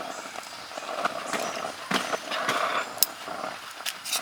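Eggs being cracked and handled at a camp stove: irregular sharp taps and clicks of shell and utensils against a bowl or pan, the sharpest about three seconds in.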